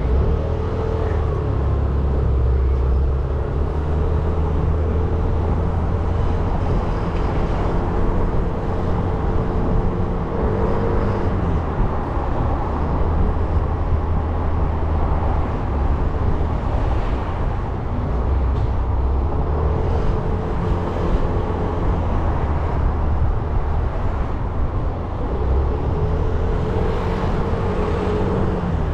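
Motorcycle engine running steadily while riding, with wind and road noise; its pitch dips briefly about ten seconds in and again near the end.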